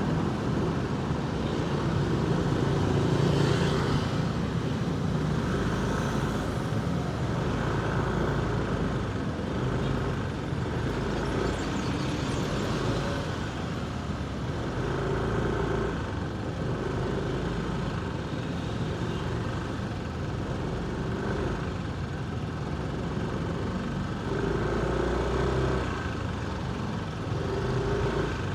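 Motorcycle engine running in heavy road traffic, its note coming and going every few seconds, over the steady noise of surrounding vehicles.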